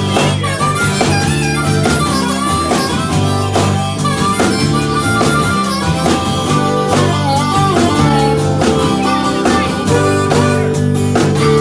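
A country band plays an instrumental intro: a steady drum beat, bass and guitar under a lead melody line whose notes bend and slide.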